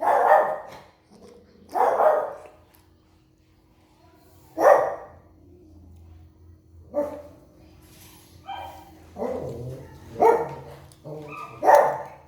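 A dog barking repeatedly, about seven short barks spaced one to two seconds apart.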